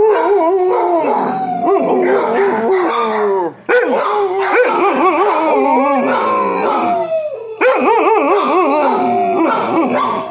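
Several kennelled shelter dogs howling and barking together in a loud, wavering chorus of overlapping voices, broken by two brief lulls.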